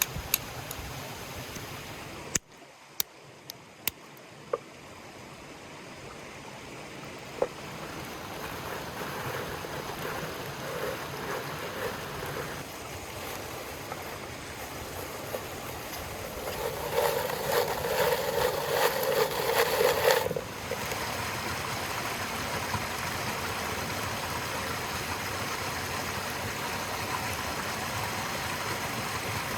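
Running river water, a steady rushing noise. A few sharp clicks come just after a sudden drop early on. A louder, rougher stretch rises about two thirds of the way through and cuts off abruptly.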